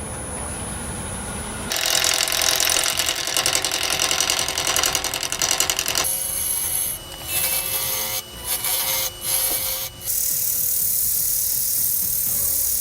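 Power tools working wood in several short cuts: a fast rasping run, broken stretches that stop abruptly, then a steady hiss with a held tone.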